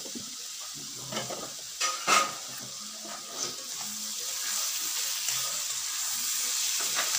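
Bamboo shoot curry sizzling in a black wok while a metal spatula stirs it, scraping and knocking against the pan. The loudest knocks come about two seconds in, and the sizzle grows louder from about four seconds.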